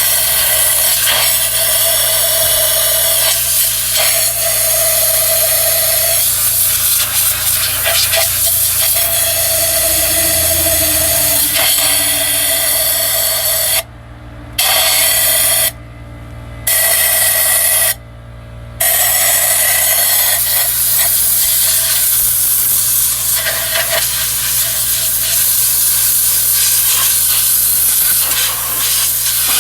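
Compressed air blowing into the spark plug wells of a 1997 Honda CR-V engine to clear out water that was shorting the plugs and coils: a loud, steady hiss that stops briefly three times about halfway through.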